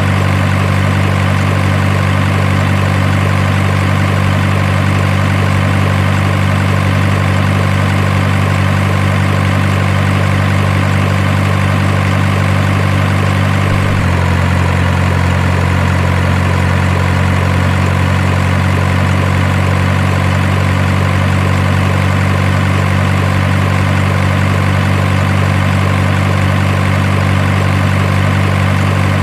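Simulated diesel truck engine idling, a steady low hum held at an even level, its pitch shifting slightly about halfway through, as from a miniature truck's sound module or an added engine sound effect.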